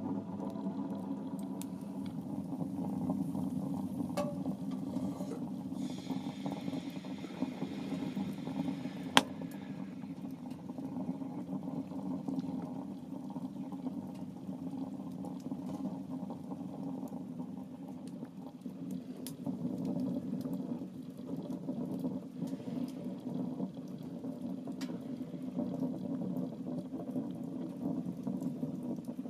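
Small wood-burning tent stove burning, a steady low rush with a few sharp crackles from the wood and one loud pop about nine seconds in.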